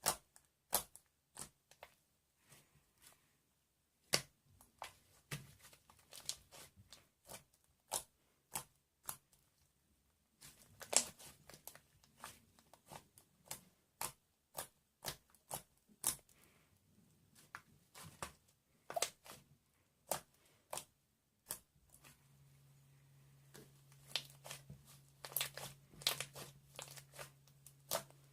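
Sharp, irregular clicks and crackles, about one or two a second, with a faint steady low hum coming in about three quarters of the way through.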